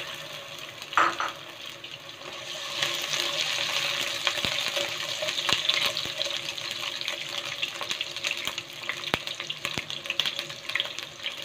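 Sliced onion and ginger sizzling in hot oil in a nonstick pot. The sizzle grows louder about three seconds in, and a spatula stirring them makes light scraping clicks.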